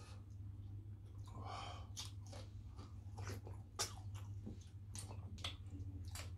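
Close-up wet chewing and lip-smacking of people eating fish and starch with their fingers: a string of short smacks and clicks over a steady low hum.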